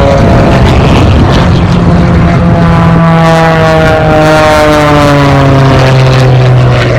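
Propeller airplane flying low past, its loud engine drone dropping in pitch as it goes by.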